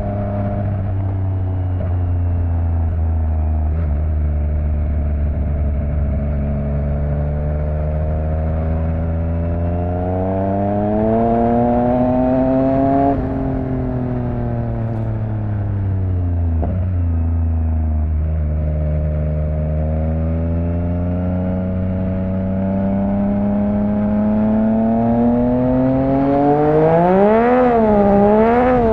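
Yamaha MT-09 three-cylinder engine through an Akrapovic exhaust, riding under load: the engine note holds steady, then climbs slowly, falls away about halfway through as the throttle eases, and climbs again. Near the end the pitch rises and dips several times in quick succession.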